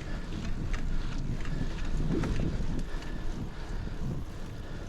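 Wind rushing over a chest-mounted action-camera microphone during a bicycle ride, over a steady low road rumble, with a few faint clicks scattered through.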